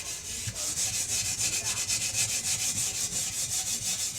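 Steel wool scrubbing the rusty exhaust pipe of a 2006 Yamaha YZ125 by hand, in quick, even back-and-forth strokes that make a rhythmic scratchy hiss.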